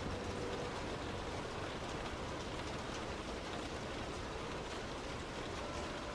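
Heavy rain beating steadily on a moving car, with the hiss of the road under the tyres.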